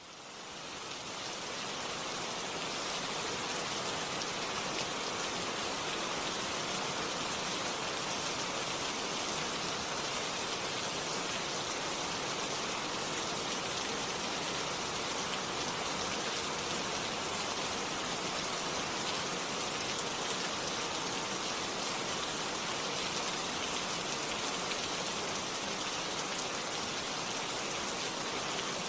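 Steady heavy rain falling, an even hiss of many drops with no thunder, swelling in over the first couple of seconds and then holding level.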